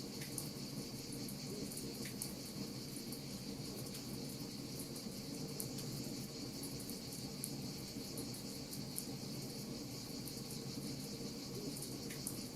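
Wood fire crackling with frequent small, sharp pops, over a steady high chirring and a low, even rush.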